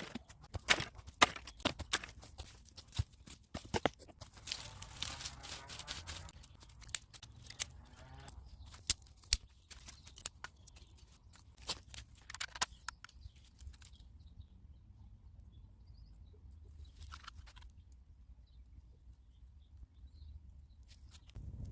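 Dry wood cracking and snapping at a campfire: irregular sharp cracks with some rustling, thinning out after about fourteen seconds to a few faint sounds over a low rumble.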